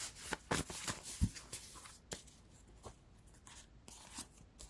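Tarot cards being shuffled and handled: a quick run of papery clicks for about two seconds, then only a few quieter, scattered clicks.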